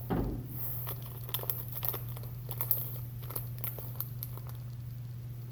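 A person chewing fruit snacks close to the microphone: a run of small, irregular mouth clicks and crunches, over a steady low hum.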